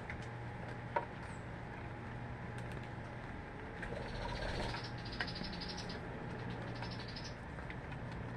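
Small bird giving a rapid, high chattering trill twice, a longer run about halfway through and a short one near the end, with a few sharp clicks earlier, over a steady low hum and hiss.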